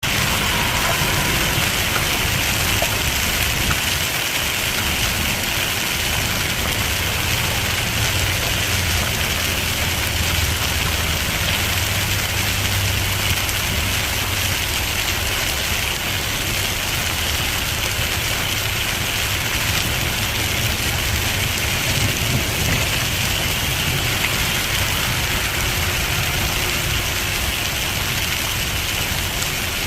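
Hail drumming steadily and densely on a car's roof and windscreen, heard from inside the moving car, with the low rumble of the engine and road underneath.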